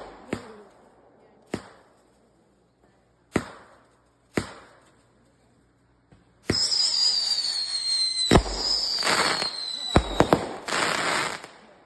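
Consumer fireworks going off: four sharp bangs a second or two apart, then from about six seconds in a sustained hissing spray with a high whistle that slowly falls in pitch, broken by several more bangs before it dies away near the end.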